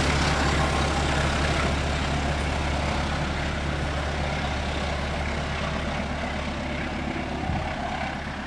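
Train passing: a diesel engine's low drone under the rumble and rattle of rolling cars, slowly getting quieter.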